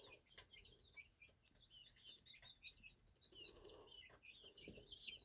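Faint chirping of small birds: many short, high chirps, several a second, overlapping.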